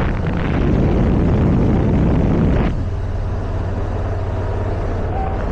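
Motorcycle on the move: engine running with wind rushing over the microphone. Louder for the first two and a half seconds, then dropping suddenly to a steadier, quieter hum.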